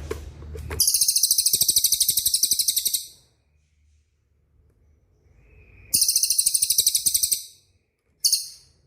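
Songbird singing very high, fast rolling trills: two runs of about two seconds each, then a short burst near the end, with silence between. This is a 'rol speed' master song used to train white-rumped shamas.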